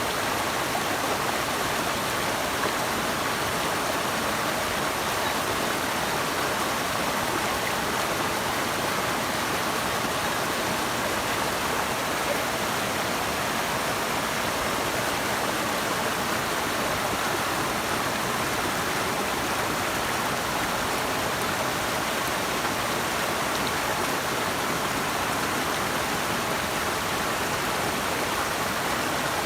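Flowing water rushing steadily, an even hiss with no separate splashes or breaks.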